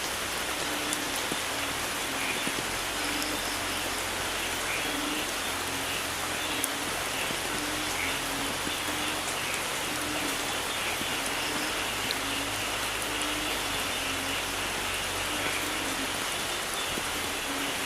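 Steady rain falling, with a faint low note repeating about once a second beneath it.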